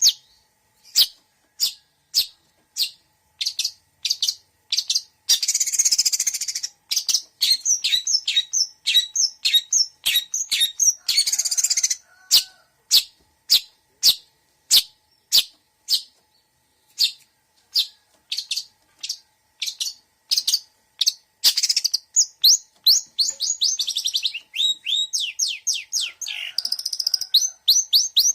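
Long-tailed shrike (cendet) singing a varied mixed song: short, sharp, downward-sliding whistled notes about two a second, broken around a quarter, two-fifths and three-quarters of the way through by brief harsh rasping bursts, with faster runs of notes near the end.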